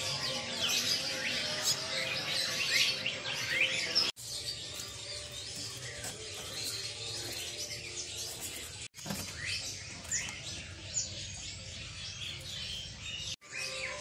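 Many caged songbirds chirping and twittering over one another, a dense stream of short high chirps and whistles. The sound cuts out abruptly three times.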